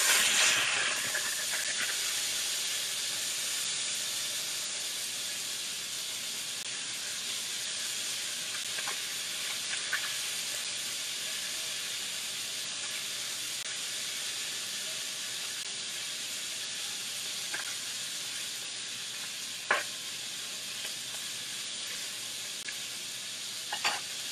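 Chicken frying in hot oil, a steady sizzle that flares up loudly at the start and then slowly eases. A few light knocks of a utensil on the pan come through it.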